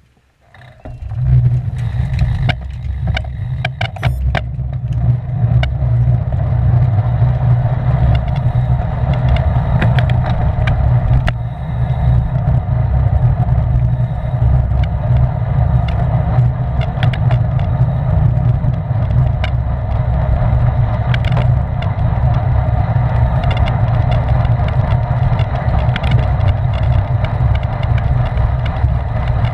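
Wind rumbling on the microphone of a camera riding along on a racing bicycle, steady and low, with scattered sharp clicks, several close together two to four seconds in.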